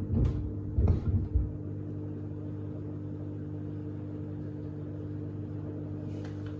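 Sneakers tumbling in the drum of a Samsung front-loading washing machine, thumping against the drum and door glass three times in the first second and a half. After that only the machine's steady motor hum is left.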